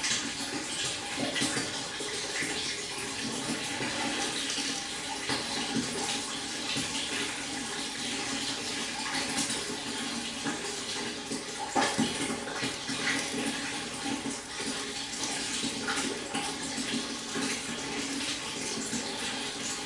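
Stream water flowing and babbling steadily over stones.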